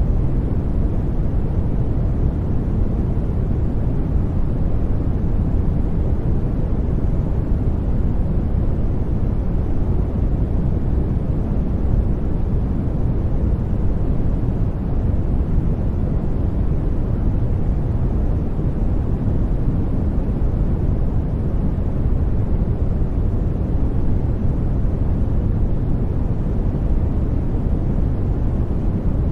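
Sleep white-noise track: a steady, even rushing noise that is deep rather than bright, with no change or break.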